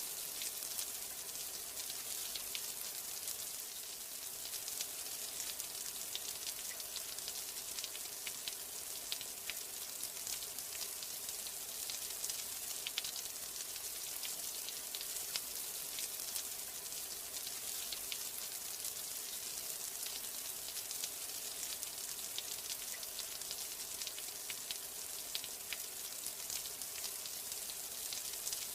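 Steady rain: an even hiss with a dense patter of individual drops ticking through it.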